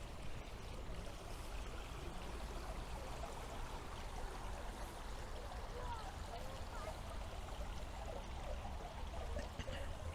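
Steady rain falling on a city street, with water running and trickling. A low steady rumble sits underneath.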